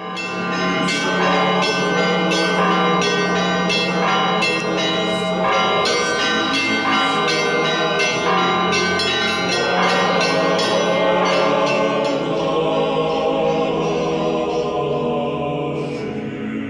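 Church bells ringing in a rapid peal over a low steady tone; the strikes thin out about halfway through and the ringing lingers and fades.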